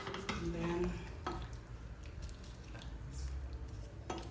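Metal utensil clinking against a cooking pot, with a sharp click about a second in and another near the end, over a low steady hum.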